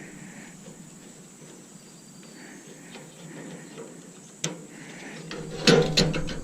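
Quiet background with faint insect chirping, then a sharp click about four and a half seconds in and a short burst of metallic clicks and clatter near the end, as hand tools work on the coffee maker's parts.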